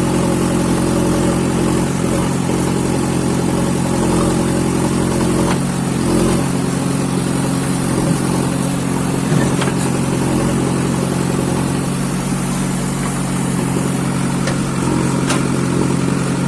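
Diesel engine of heavy machinery, such as a backhoe loader or tractor, running at a steady speed, with a few faint clicks on top.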